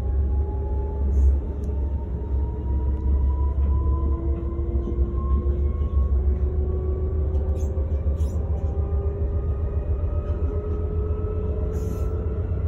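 Electric train heard from inside the carriage while it picks up speed: a steady, loud low rumble under a motor whine that rises slowly and evenly in pitch, with a few faint clicks.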